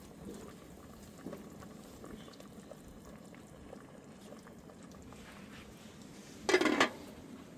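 Liquid simmering softly on the heat, with faint ticks, and a short, loud pitched sound about six and a half seconds in.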